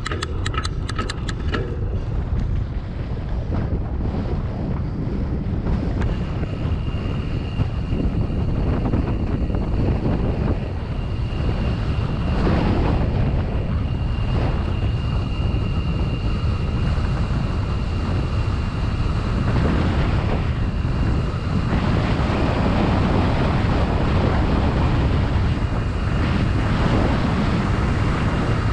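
Wind rushing over the microphone of a camera on a moving bicycle, a steady loud rumble with no speech. A quick run of ticks comes in the first couple of seconds.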